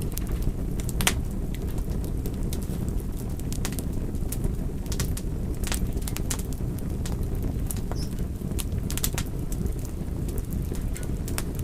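Fire crackling: a steady low rumble of burning with sharp pops and crackles scattered irregularly, roughly one a second.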